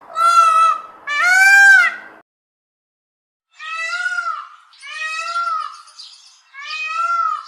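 Peacock calling: five loud, high, screaming calls that arch up and down in pitch. Two strong calls come close together, then after a pause three slightly quieter ones follow.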